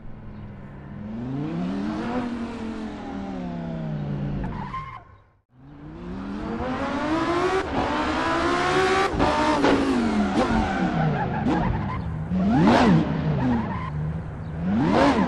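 High-performance sports car engine revving under hard driving, its pitch climbing and falling in long sweeps. It breaks off briefly a little past five seconds, then picks up again, with two quick sharp rises and falls in pitch near the end.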